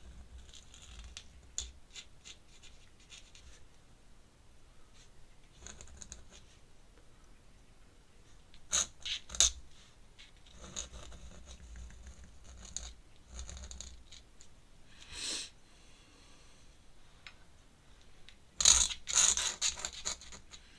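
Ink pen scratching on sketchbook paper in short, uneven strokes, with louder bursts of quick scratching about nine seconds in and again near the end.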